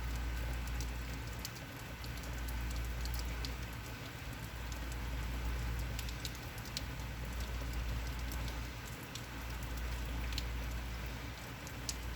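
Heavy rain falling steadily, with scattered sharp ticks of single drops striking close by. A deep low rumble underneath swells and fades every few seconds.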